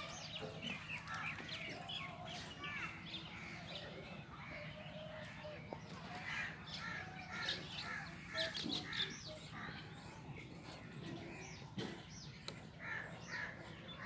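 Several birds chirping and calling, many short calls overlapping throughout and busiest in the middle.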